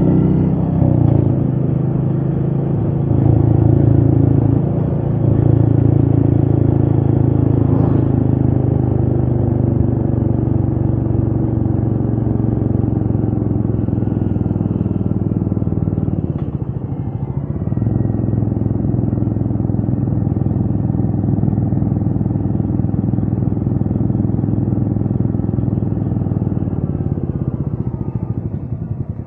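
Royal Enfield Meteor 350's single-cylinder engine running steadily as the motorcycle is ridden. The engine note dips briefly a little past halfway and falls away near the end as the throttle eases off.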